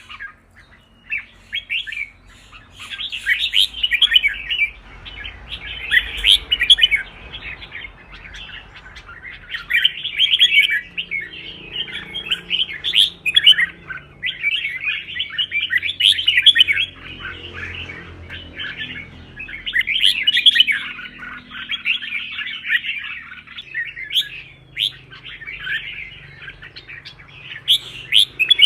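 Red-whiskered bulbul singing, loud phrases of quick chirps and warbles repeated every few seconds with short pauses between. This is the lively, fired-up song that keepers use to train their birds for singing competitions.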